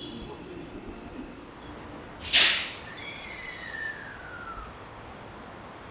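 Train's pneumatic air brake system letting out one short, loud hiss of air about two seconds in, followed by a faint whine falling in pitch.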